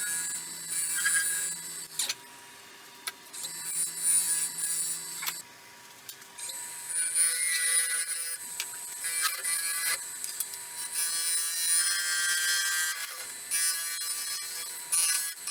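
Wood lathe running with a faint steady hum while a gouge cuts the spinning walnut, pecan-shell and resin bowl blank in irregular bursts of hissing scraping.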